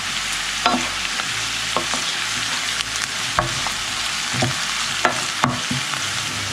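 Diced onion and garlic sizzling in olive oil in a frying pan on low heat: a steady hiss with scattered sharp crackles.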